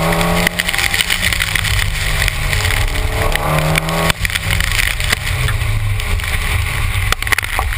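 A car engine revving hard twice, its pitch climbing then dropping sharply about four seconds in, under heavy road rumble and spray noise from wet tyres on a soaked autocross course. It is heard through a camera mounted at the rear of the car.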